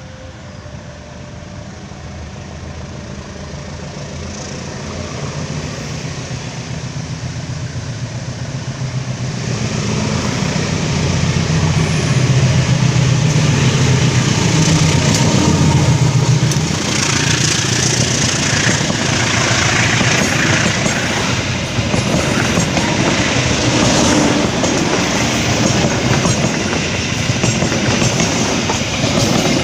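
Diesel locomotive hauling a passenger train, approaching and passing close by. Its engine rumble swells through the first half and is loudest as the locomotive goes past, then the carriages roll by with the wheels clattering on the rails.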